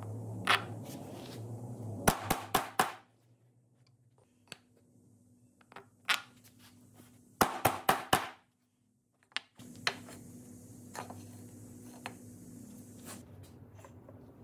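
A power tool's motor hums steadily and stops about three seconds in, amid a quick run of sharp knocks and clicks of wood and tool parts being handled. Another cluster of sharp clicks and knocks comes around the middle, and the motor hum starts again about ten seconds in.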